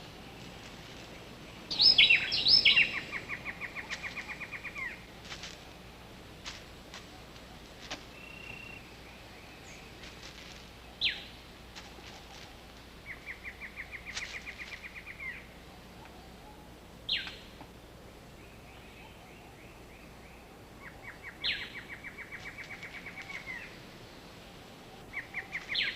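Rainforest animal calls: a loud burst of high chirps about two seconds in, then rapid pulsed trills that recur every several seconds, with two sharp downward whistles between them, over a steady low hum.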